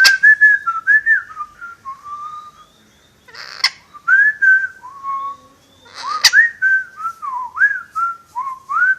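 Pet parrot whistling a tune in clear notes that slide up and down, in three short phrases. Each phrase is opened by a sharp click.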